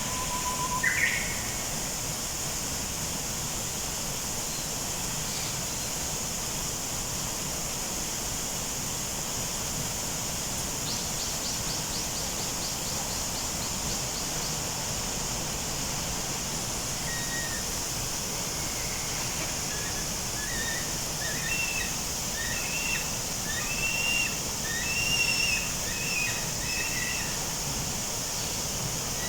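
Bird calls over a steady outdoor hiss: a fast trill about eleven seconds in, then short chirping notes repeated in clusters through the second half.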